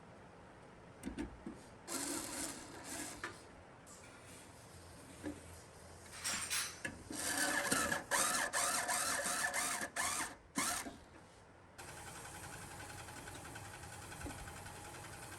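Bursts of small-motor or tool whirring with clicks and rattles, then a steady hum that starts suddenly about twelve seconds in.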